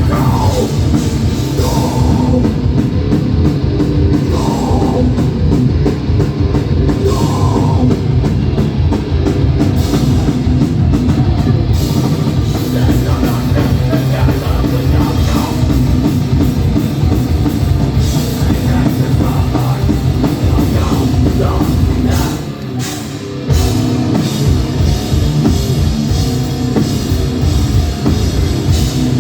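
Hardcore punk band playing live at full volume, with distorted guitars, bass and drums. About three-quarters of the way through, the sound drops briefly for a short break, then the full band comes back in.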